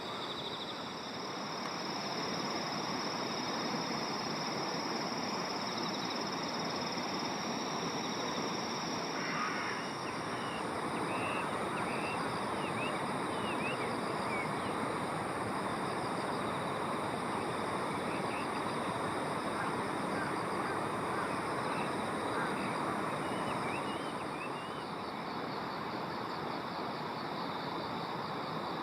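Steady rushing outdoor noise with insects trilling continuously at a high pitch, several insect songs overlapping, and a scatter of short high chirps through the middle.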